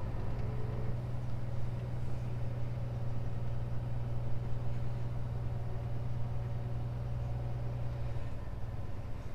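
Scania truck's diesel engine running steadily at low revs, a constant low drone with no change in pitch, as the truck crawls along at walking pace.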